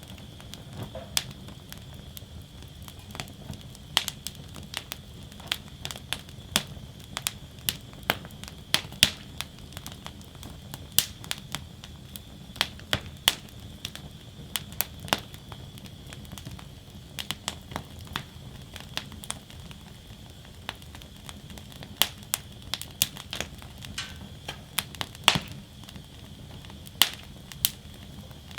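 Wood fire burning in a fire basket, crackling and popping with irregular sharp snaps over a steady low rumble and faint hiss.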